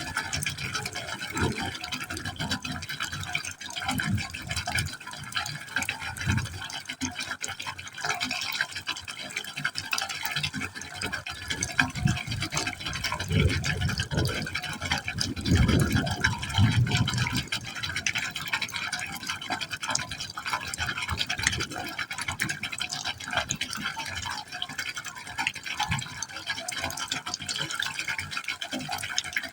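Water falling into a pipe opening: a continuous splashing rush with irregular low gurgles, loudest about halfway through.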